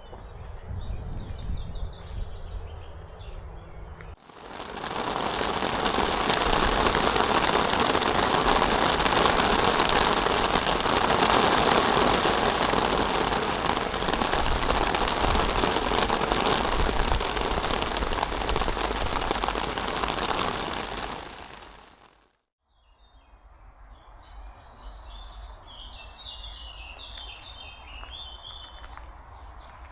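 Heavy rain pouring, starting suddenly about four seconds in as a loud, even downpour and cutting off abruptly a little after twenty seconds. Quieter rain follows, with small birds chirping.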